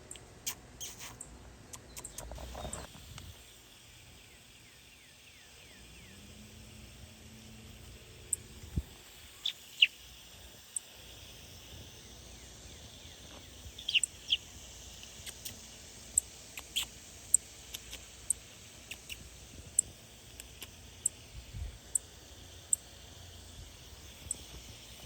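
Small birds at a nest giving short, sharp, high chirps, one at a time and spaced irregularly, over a dozen from about a third of the way in. Near the start there is a brief stretch of rustling and clicking handling noise.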